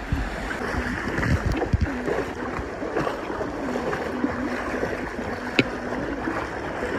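Rushing wind and water noise from a moving ride, with a faint steady engine hum under it and a few low thumps in the first two seconds.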